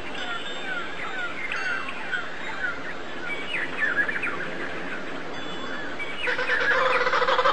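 Small birds chirping, a run of short quick chirps that sweep downward. Near the end a louder, rapid pulsing call sets in.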